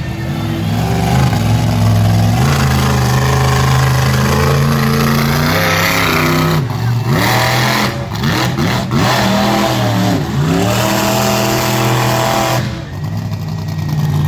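Monster truck engine revving hard. It holds high revs at first, then the pitch drops and climbs back sharply several times in the middle as the throttle is lifted and stabbed again, and it falls away near the end.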